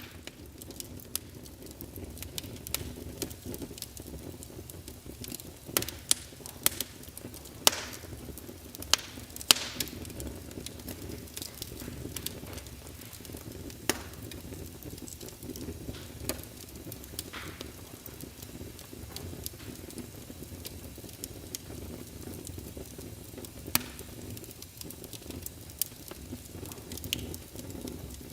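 Wood fire crackling in a fireplace: a steady low rumble with irregular sharp pops and snaps, a cluster of the loudest pops about six to ten seconds in.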